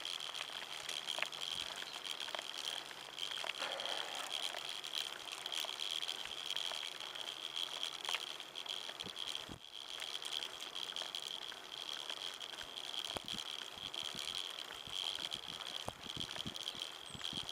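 A semi-recumbent bicycle being ridden, with light rattles and clicks from the bike. A steady high-pitched drone runs underneath throughout.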